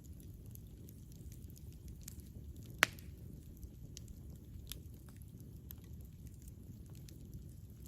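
Campfire burning: a steady low rumble with scattered small crackles, and one sharp, loud pop about three seconds in.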